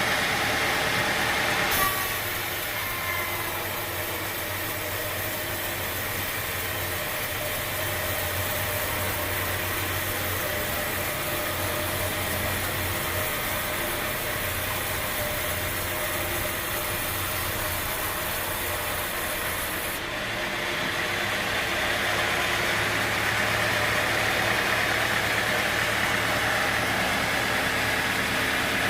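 Machinery engine running steadily with a low hum, the sound changing abruptly about two seconds in and again about two-thirds of the way through.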